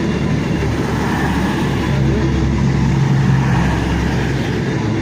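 Diesel engines of Class 221 Voyager units running steadily at the platform, a loud low hum.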